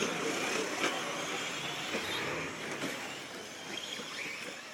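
Radio-controlled short course trucks racing, their motors whining up and down in pitch over a steady hiss of tyres and track noise.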